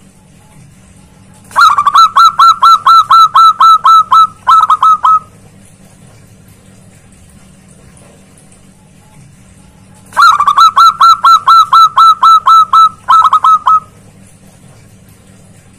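Zebra dove (perkutut) cooing loudly in two phrases. Each phrase is a fast run of about a dozen evenly repeated notes, followed after a brief pause by a short group of three or four more.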